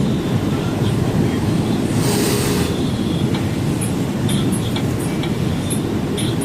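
Truck running on the road: a steady low engine and road rumble with light, irregular rattles, and a short hiss about two seconds in.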